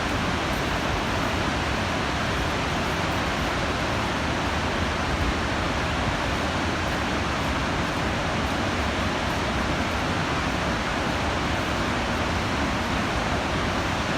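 Gullfoss waterfall: the steady rush of falling water, even and unbroken.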